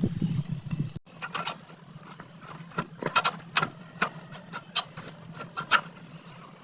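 Irregular sharp clicks and knocks of tools and metal parts being handled during work on a motorcycle shock absorber, some with a short metallic ring, over a steady low hum. The sound cuts abruptly about a second in before the clicking starts.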